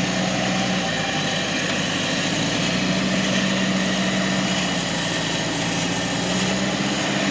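Off-road jeep engine running steadily at low revs as the vehicle crawls over rough ground.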